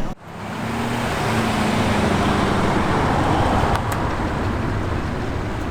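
A road vehicle driving: steady road and engine noise, with a low hum for the first few seconds.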